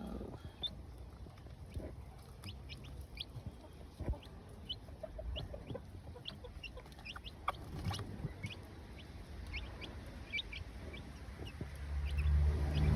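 Silkie chicks peeping with short, high cheeps scattered throughout, and the mother hen giving a short run of low clucks about five seconds in. A low rumbling noise builds near the end.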